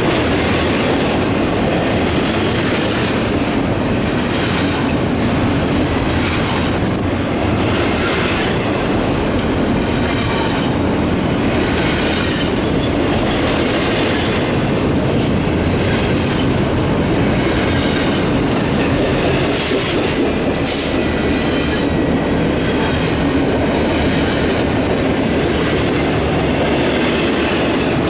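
Double-stack intermodal well cars of a long CSX freight train rolling steadily past, the wheels clicking over rail joints. A faint wheel squeal comes in briefly about two-thirds of the way through.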